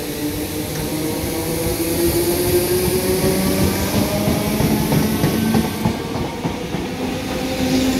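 Class 313 electric multiple unit pulling out of the station: its traction motors whine, the pitch climbing in steps as it accelerates, over a clatter of wheels on the track. A high hiss stops about six seconds in.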